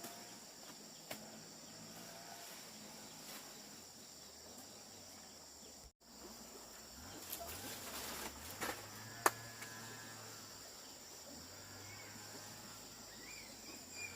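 Steady high-pitched chirring of insects, with a few faint knocks and one sharp click about nine seconds in.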